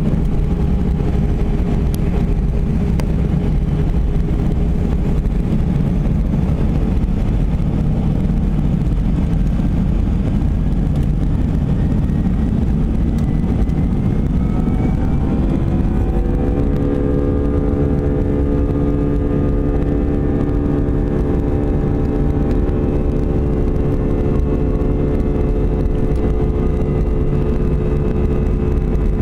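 Airbus A319's CFM56 jet engines heard from on board: a low rumble, then about halfway the engines spool up with a rising whine. They settle into a steady multi-tone buzz, the fan 'buzzsaw' of takeoff thrust.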